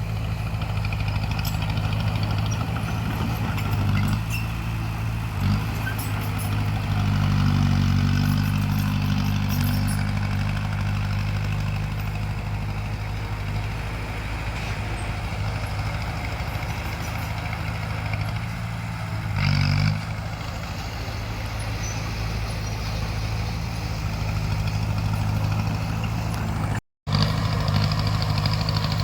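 Crawler bulldozer's diesel engine running steadily, working harder for a few seconds early on and with a short surge a little over two-thirds through. The sound cuts out for a split second near the end.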